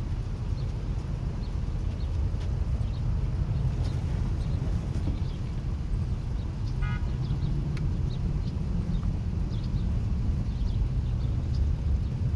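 Outdoor ambience: a steady low rumble with scattered short, high chirps, and one brief pitched tone about seven seconds in.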